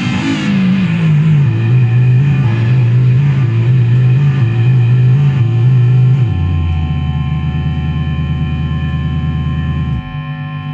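Handmade synthesizer playing loud noise music: a buzzy low tone that wobbles and steps in pitch, with a brief upward glide near the start, drops to a lower steady drone about six seconds in and changes pitch again near the end, over a layer of steady high tones.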